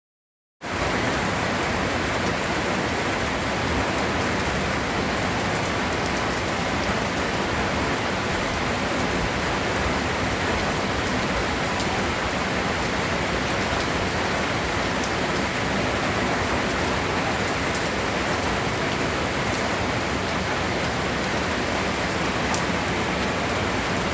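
Steady heavy rain falling, an even unbroken hiss that cuts in abruptly after a moment of silence under a second in.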